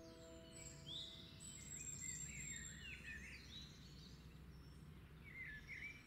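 Faint, short chirping bird calls, a few wavering notes at a time, over low outdoor background noise; a held music note fades out in the first two seconds.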